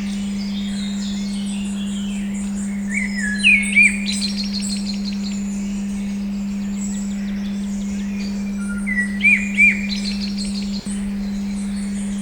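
A steady 200 Hz pure tone hums without a break under recorded birdsong: chirps, trills and short rising-and-falling whistles. The birds are loudest in two short runs, about a third of the way in and again near three-quarters. The tone briefly drops out near the end.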